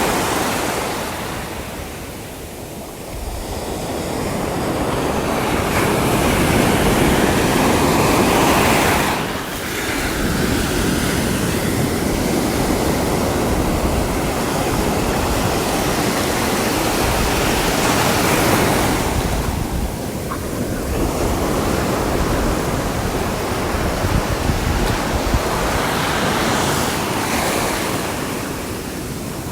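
Sea waves breaking and washing up the shore: a continuous rushing surf that swells and eases every several seconds.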